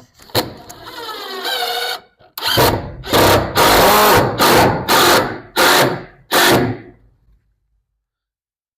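A handheld power drill spinning up with a rising whir, then run in about seven short, loud bursts, as when driving fasteners into wood boards.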